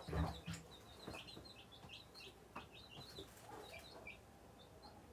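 Baby chicks and ducklings peeping, many short high chirps overlapping in quick succession. A soft thump comes right at the start.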